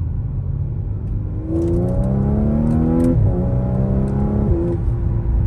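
Audi SQ5's supercharged 3.0-litre V6, heard from inside the cabin, revving up under hard acceleration. The pitch climbs, drops suddenly about three seconds in as the automatic gearbox upshifts, then climbs again until another drop near the end.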